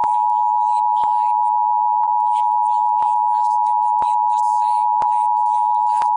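Loud, steady, high-pitched emergency alert tone, with faint ticks about once a second.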